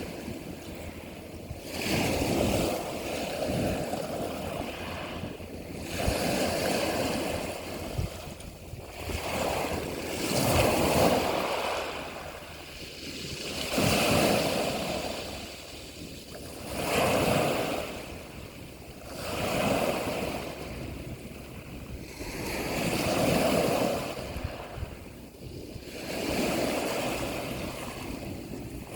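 Sea waves washing in and drawing back, each surge swelling and fading about every three to four seconds.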